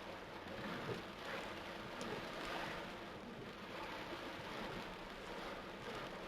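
Torrential rain falling steadily: an even, continuous hiss of water.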